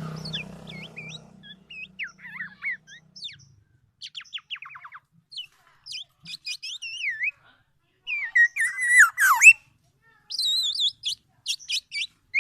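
Golden oriole (kepodang emas) calling: irregular bursts of short whistled glides and chattering notes, including a quick falling series about four to five seconds in. The loudest run of harsh and whistled notes comes about eight to nine seconds in.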